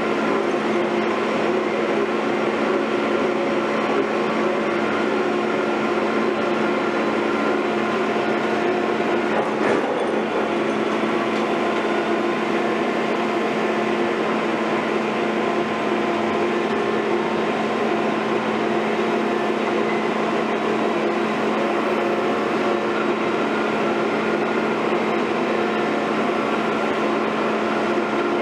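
Heavy construction machine's diesel engine running steadily at constant speed, a level hum with no change in pitch.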